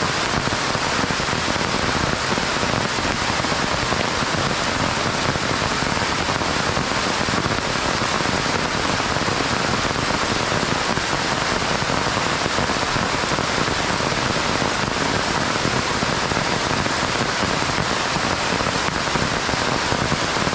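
Heavy rain falling steadily, a dense, even hiss of many drops striking surfaces.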